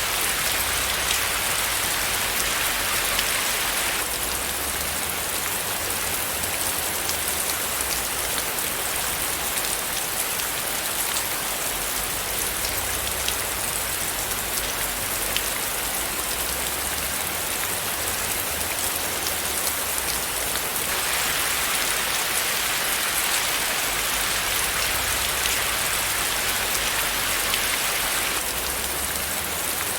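Steady rain falling, a dense even hiss of many small drop impacts. It eases slightly a few seconds in and grows a little heavier again about two-thirds of the way through.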